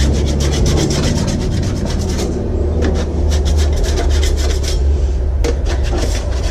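Quick, irregular scratchy rubbing strokes, several a second, over a steady low rumble.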